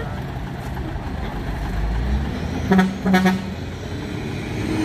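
Two short horn toots about three-quarters of a second apart, over the steady low rumble of truck engines running.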